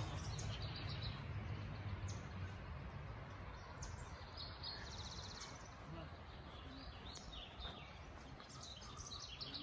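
Birds chirping now and then over a steady outdoor hiss, with a rapid high trill about five seconds in.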